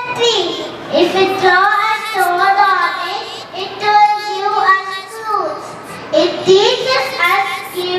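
A young child singing a song, holding long notes between short breaths.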